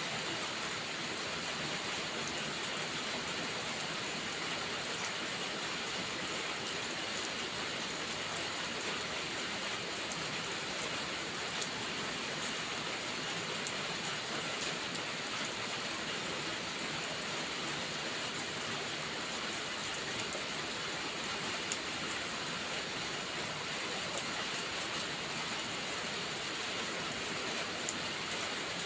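Steady rain falling, an even hiss of drops with no let-up, with a few faint sharp clicks scattered through it.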